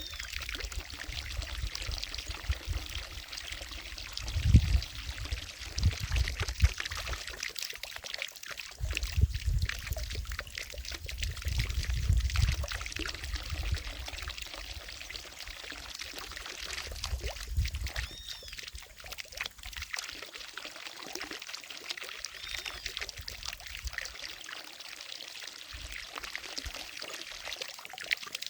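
Water from a fountain splashing steadily into a lake, a constant pouring hiss. Irregular low rumbles come and go through the first two-thirds, and a couple of faint high chirps sound past the middle.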